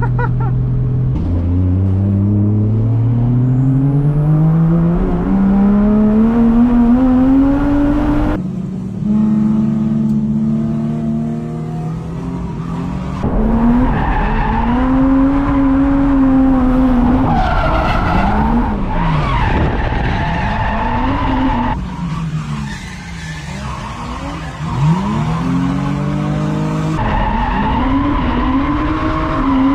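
Drift car's engine revving hard with tyres squealing as the car slides: the engine pitch climbs steadily for the first several seconds, then swings rapidly up and down, with several abrupt cuts.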